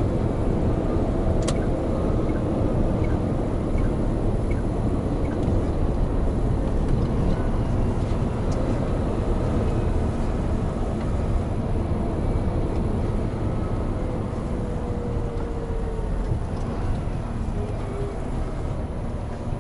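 Hino Profia heavy truck under way: a steady low rumble of diesel engine and road noise, easing slightly toward the end, with one light click about a second and a half in.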